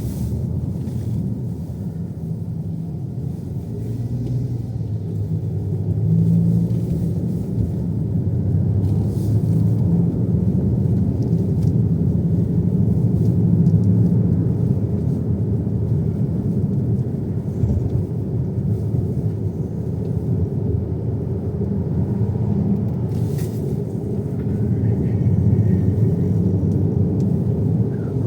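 Steady low rumble of a car being driven, heard from inside the cabin: engine and road noise that swells and eases slightly with the driving.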